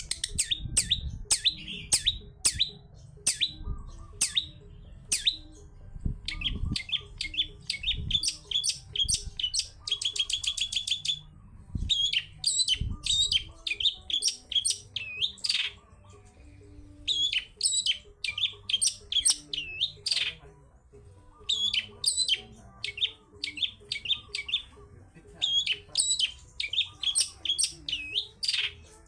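Long-tailed shrike (cendet) singing in rapid bursts of short, sharp, high chattering notes broken by brief pauses, with a fast even trill about ten seconds in. It is the loud, busy song used as a lure to get other cendets singing.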